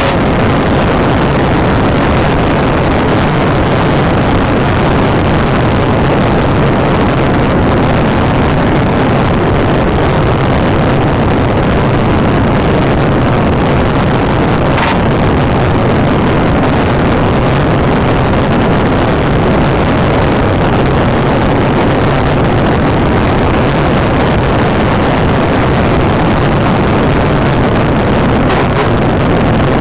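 Steady, loud engine, tyre and wind noise of a police car driving at pursuit speed, with no siren audible.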